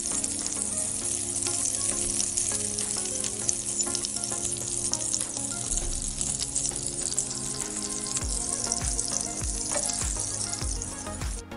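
Green chilli rings frying in oil in a nonstick pan, a steady sizzle, with a wooden spatula stirring them near the end. Soft background music plays underneath, and the sizzle cuts off suddenly just before the end.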